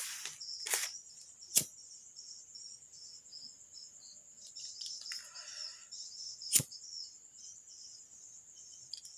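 Crickets chirring steadily, high-pitched, with a few sharp clicks on top, the two loudest about a second and a half in and about six and a half seconds in, and a brief rustle around five seconds in.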